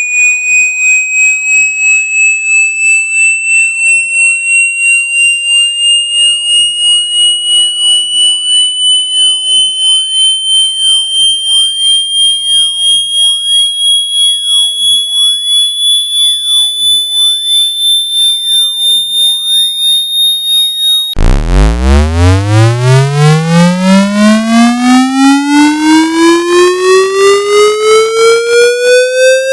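Electronic speaker-cleaning test tone: a high, pure tone pulsing about twice a second and slowly rising in pitch. About 21 seconds in it switches abruptly to a louder, buzzy low tone that sweeps quickly upward.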